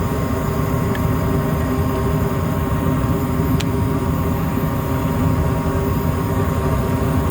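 Gas furnace running in heat mode, burners lit with the inducer and blower motors on: a steady mechanical hum with a faint whine over it. One small click about three and a half seconds in.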